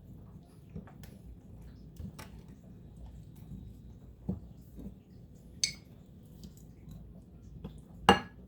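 Tablespoon working a mayonnaise dressing in a bowl: faint stirring with a few scattered taps, a sharp ringing clink about halfway through, and a louder ringing clink near the end.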